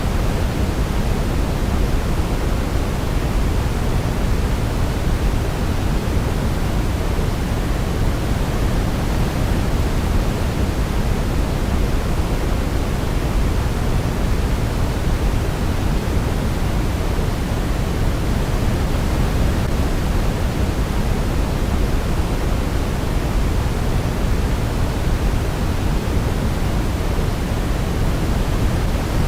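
Steady sleep white noise, an even rushing hiss weighted toward the deep end, unchanging throughout with no melody standing out.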